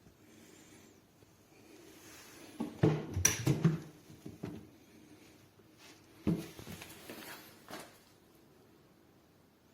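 Handling noises: a quick cluster of knocks and clatter about three seconds in, then a single sharp knock a little after six seconds, with a few faint clicks.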